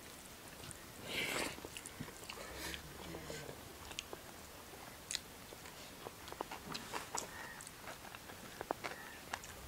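Close-up chewing and mouth smacks of people eating rice and vegetable curry with their hands, with scattered small clicks as fingers mix the food on metal plates. A brief louder rustling noise comes about a second in.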